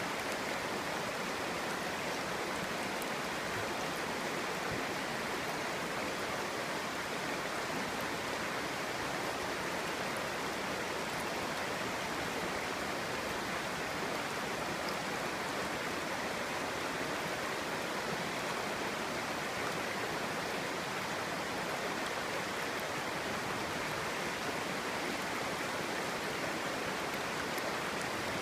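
Clear stream water babbling steadily over rocks.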